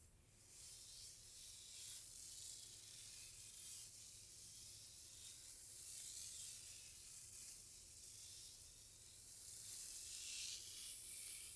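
Soft, close-up swishing of hair being played with: a steady high hiss that swells and eases, loudest near the end.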